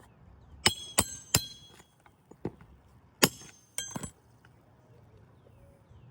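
Metal roofing tools striking or knocking against each other: about seven sharp metallic clinks in two clusters, several with a short high ring.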